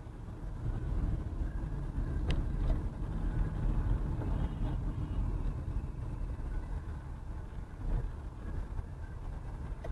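A car driving, a steady low rumble of engine and road noise, with a few faint clicks.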